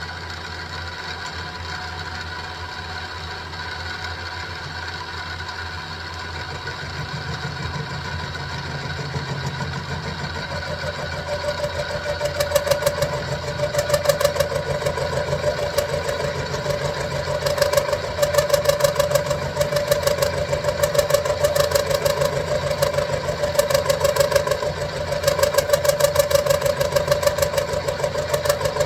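Benchtop mini milling machine (SIEG X2 type) running with a steady motor whine. About eleven seconds in, the end mill bites into 1045 steel and a louder, ringing, rapidly pulsing cutting noise joins the hum and keeps on.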